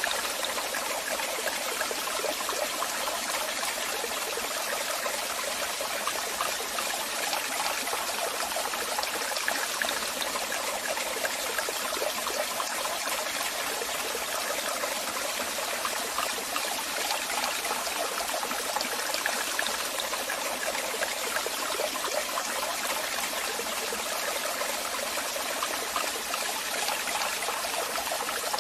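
Waterfall: water splashing and rushing steadily, a constant hiss with little deep rumble.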